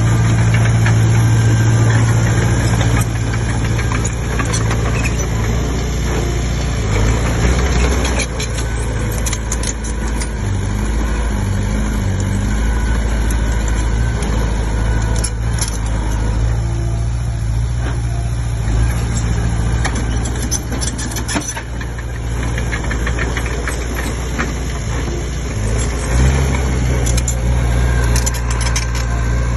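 Komatsu D20P crawler bulldozer's diesel engine running steadily. Its note shifts a few times, and scattered metallic clanks and rattles sound through the middle.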